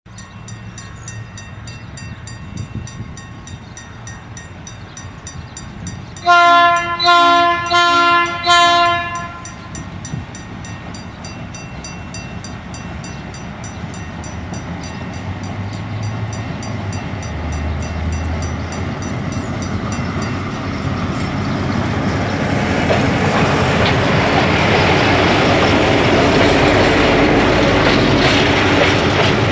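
ALCO RSD-16 diesel locomotive sounding its multi-note horn in four short blasts about six seconds in. Its V16 diesel engine then grows steadily louder as it approaches, and near the end the tank cars roll past with the clickety-clack of wheels over the rail joints.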